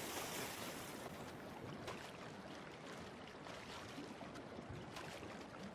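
Faint, steady wash of sea water, with no pitched sound in it.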